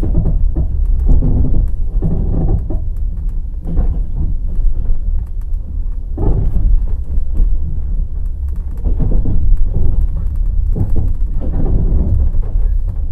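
Passenger train wheels clattering over rail joints at speed. A steady deep rumble runs under it, with groups of clacks coming every couple of seconds.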